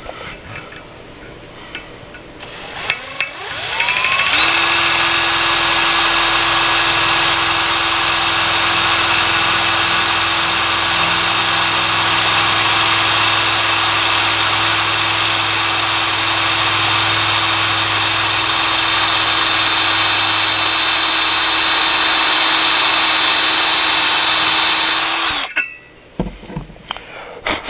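Power drill spinning up about four seconds in, then running at a steady pitch for about twenty seconds while it bores a small pilot hole for a new exhaust port in a Yamaha Tri-Moto 175 two-stroke cylinder. It stops abruptly near the end, followed by a few light clicks of handling.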